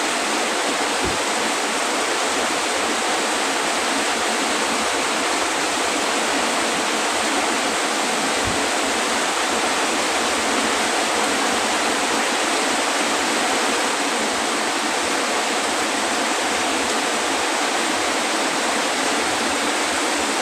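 Heavy tropical rain pouring down in a steady, unbroken rush, with two short low thumps, one about a second in and one near the middle.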